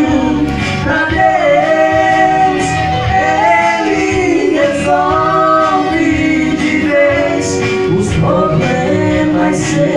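A gospel song: sung vocals holding and gliding between long notes over a continuous instrumental backing.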